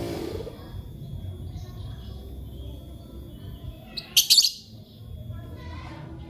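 Lovebird giving one loud, shrill, harsh chirp about four seconds in, with fainter chirps around it.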